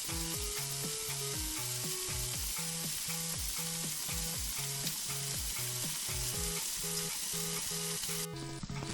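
Oil sizzling steadily around salmon cooking in an oil sauce, a continuous hiss that cuts off abruptly near the end, under background music with a steady beat and bass line.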